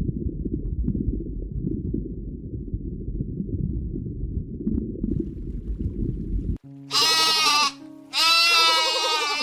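A low, rough rumble for about six and a half seconds, then two loud, wavering bleats, the second beginning about a second after the first ends and running on.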